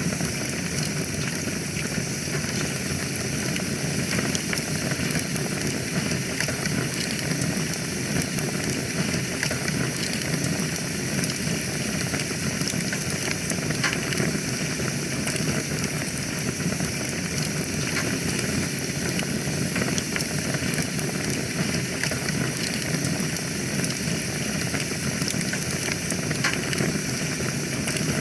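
Fire burning in a fireplace, crackling steadily with many small pops over a constant hiss.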